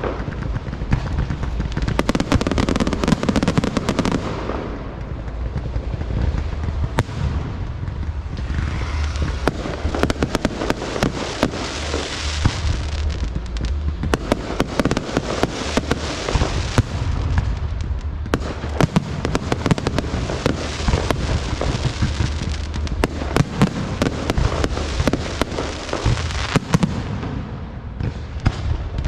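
A continuous, irregular barrage of sharp cracks and pops over a crackling hiss and a low rumble.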